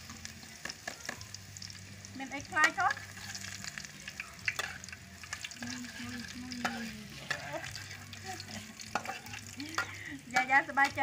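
Food sizzling as it fries in a steel wok, with a metal spatula scraping and tapping against the pan as it is stirred. A few short pitched animal calls come about two and a half seconds in and again near the end, louder than the frying.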